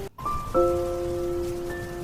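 Background music: slow, bell-like notes ringing out over a steady rain sound. There is a brief break just after the start, then a new note is struck about half a second in and a higher one near the end.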